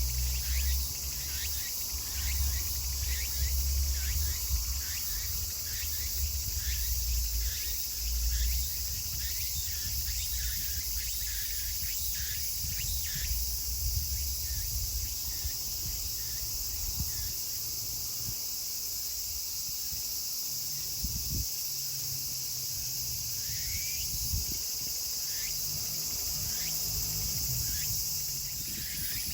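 Chorus of tsukutsukuboshi cicadas (Meimuna opalifera): a steady high-pitched drone with rapid repeated chirping calls, about two a second, that thin out after the first half. A low rumble sits under it for the first several seconds.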